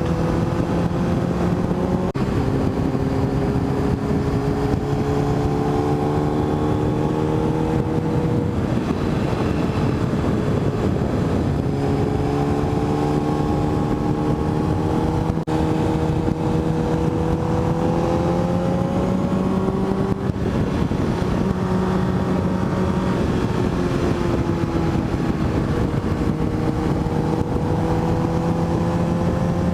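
Motorcycle engine running under way on the road, its pitch climbing slowly through each gear and dropping back at a few gear changes, over steady road and wind noise.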